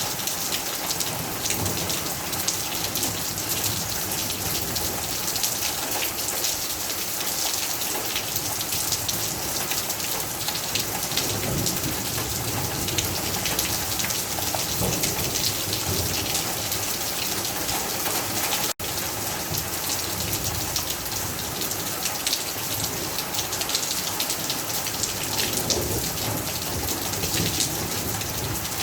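Heavy rain falling steadily, a dense hiss of many drops striking hard surfaces. The sound cuts out for an instant about two-thirds of the way through.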